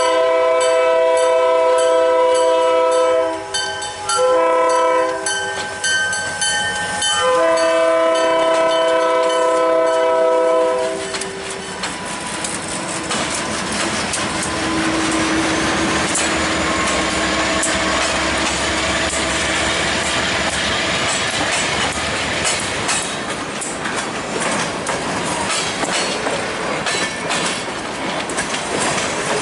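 Diesel freight locomotive's multi-chime air horn blowing several blasts: a long one, two short ones, then another long one that ends about 11 seconds in. The locomotives then rumble past close by, followed by boxcars rolling through with wheels clattering over the rail joints.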